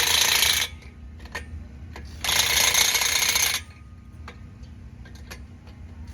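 Impact wrench running in two short rattling bursts, about two seconds apart, with light clicks of tools between them, as the race car's rear-end gear is changed.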